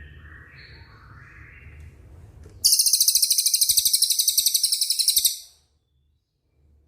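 Recorded songbird song: a few soft whistled notes, then a loud, very fast, high-pitched rolling trill of about twelve pulses a second lasting some two and a half seconds, which stops abruptly.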